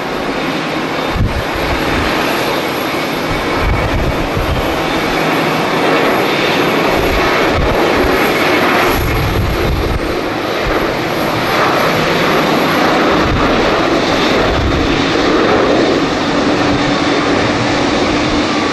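Jet airliner engines running, a loud steady rush of noise, with strong wind buffeting the microphone in low gusts. A faint steady hum joins near the end.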